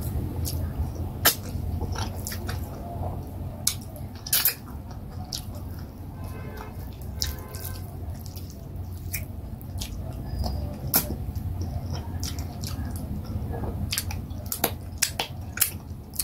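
Close-miked mouth sounds of eating fufu and vegetable soup by hand: wet, sticky clicks and smacks while chewing and swallowing, scattered irregularly over a steady low hum.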